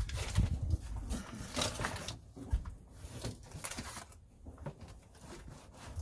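Irregular rustling, crinkling and scraping of sheets of sound-deadening mat being handled and laid out on a truck cab floor.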